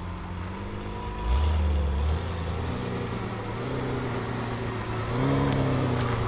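BMW M5 F90's twin-turbo V8 running at low revs through a SuperSprint exhaust, its note rising and falling gently a couple of times with light throttle.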